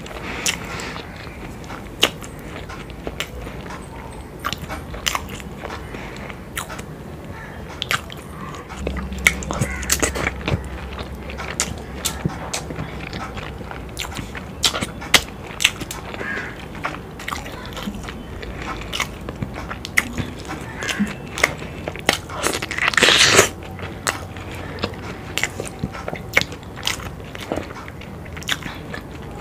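Close-miked eating: chewing and biting into fried boiled eggs coated in spicy egg curry, with many short, sharp, wet mouth clicks and smacks. About three-quarters of the way through there is one louder, noisier burst lasting about a second.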